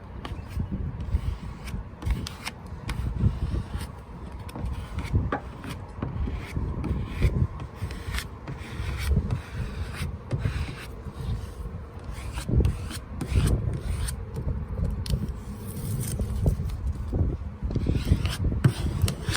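Vinyl decal being rubbed down onto a boat hull: irregular rubbing and scraping strokes, with scattered short clicks.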